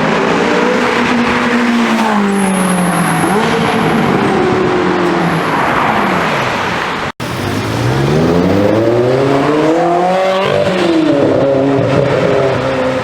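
Ferrari engines in two short clips: in the first, the engine note falls away as the car goes past; after a cut about seven seconds in, another run rises steadily in pitch under hard acceleration, then drops sharply at the lift-off or upshift before settling.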